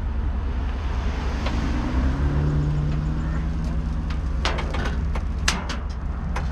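A vehicle engine running with a steady low rumble, a held engine tone coming in about two seconds in, and several sharp metallic clicks and clanks near the end, as a car is loaded onto a trailer.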